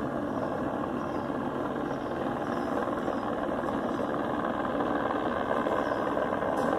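Police helicopter circling overhead, a steady engine and rotor drone that grows slowly a little louder.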